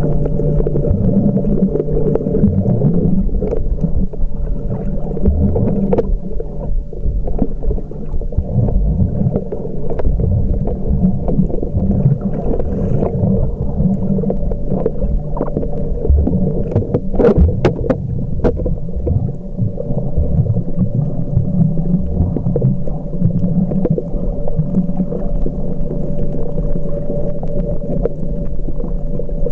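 Muffled underwater sound from a camcorder in a sealed housing during snorkeling: a low churning rumble of water against the housing with a steady hum, and a few sharp clicks a little past halfway.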